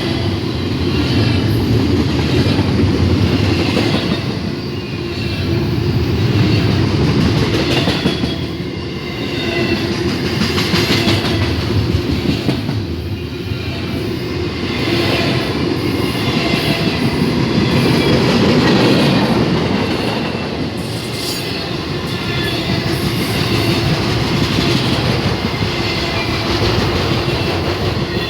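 Union Pacific train cars rolling past, a steady clatter of wheels on the rails that swells and eases every few seconds as the cars go by.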